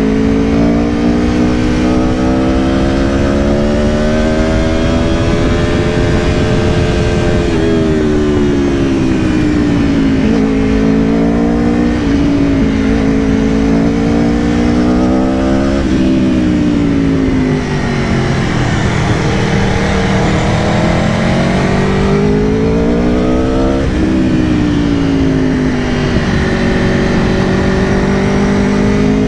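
The V4 engine of a 2022 Aprilia Tuono V4 Factory under way, its pitch climbing under throttle and dropping sharply at several gear changes, then easing off and building again. A steady rush of wind runs underneath.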